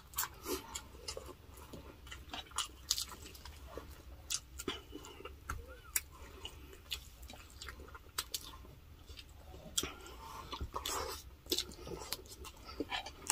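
People chewing grilled chicken and milkfish close to the microphone, with irregular wet mouth clicks and smacks.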